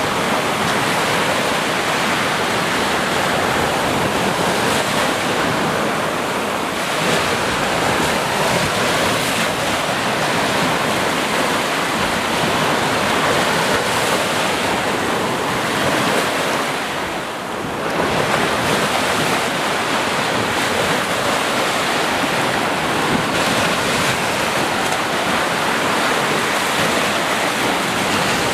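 Sea surf: waves breaking and washing in a continuous rush, easing off briefly about two-thirds of the way through before the next wave surges in.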